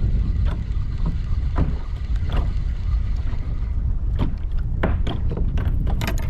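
Wind rumbling hard on the microphone, with water splashing and slapping against a kayak in short irregular strokes, more often near the end.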